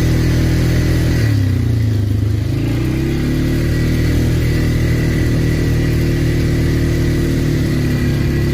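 ATV engine running under way. The revs drop about a second in, climb back a second or so later, then hold steady.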